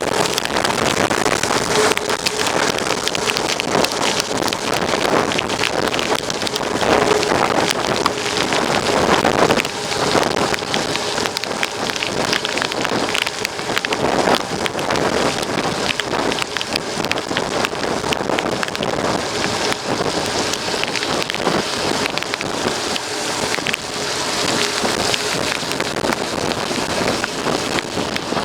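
Mountain bike ridden over a rough dirt trail: a steady, dense crackle of tyres on loose ground and the bike's parts rattling, with many small ticks and clicks throughout.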